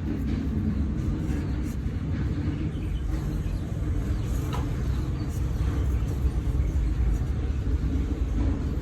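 A steady, low mechanical rumble from a running engine or machine, with a few faint clicks over it.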